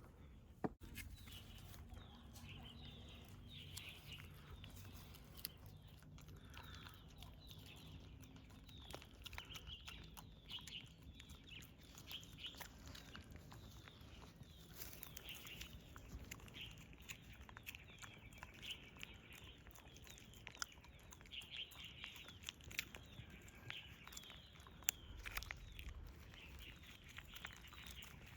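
Faint, high-pitched animal chirps and squeaks repeating again and again, with scattered soft clicks.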